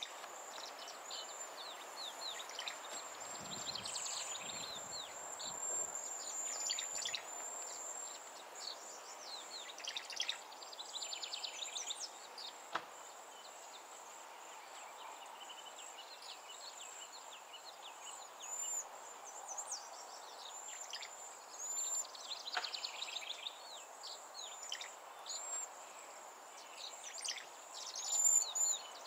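Wild songbirds chirping and calling in many short, overlapping notes over steady outdoor background noise.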